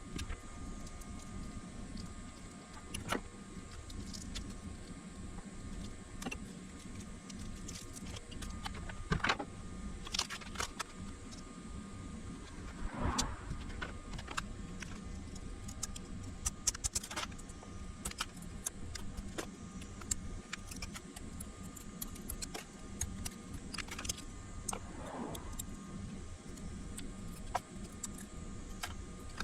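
Scattered small clicks, taps and clatter of parts and tools being handled on a workbench, over a steady low hum; a slightly longer scraping rattle comes about halfway through and another near the end.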